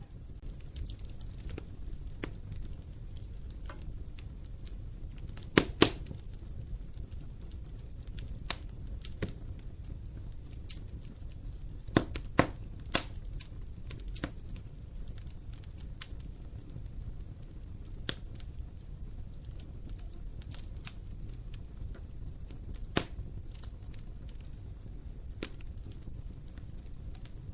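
Wood fire burning in an open fireplace: a steady low rumble of flames with scattered sharp crackles and pops. The loudest pops come in a pair about a fifth of the way in, a cluster near the middle, and a single one later on.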